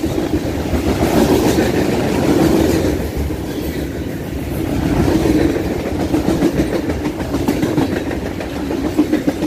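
Freight cars rolling past close by, boxcars then lumber-loaded flatcars and a tank car: a steady rumble of steel wheels on rail with repeated clicks as the wheelsets cross the rail joints, swelling and easing as each car goes by.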